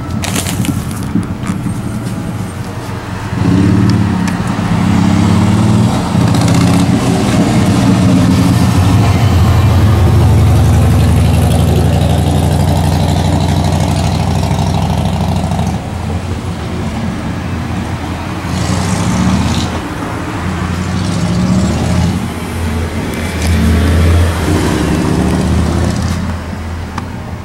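Car engine and road noise heard from inside a moving car. The engine pulls harder and gets louder about three seconds in, eases off after about sixteen seconds, and picks up again briefly near the end.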